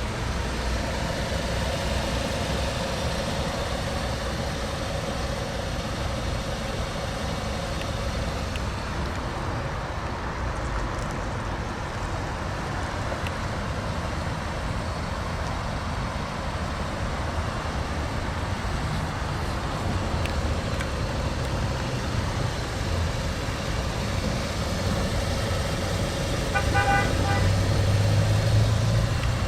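Steady motor-vehicle noise, engine and road sound with no speech, with a short run of quick beeps near the end and a louder low rumble over the last few seconds.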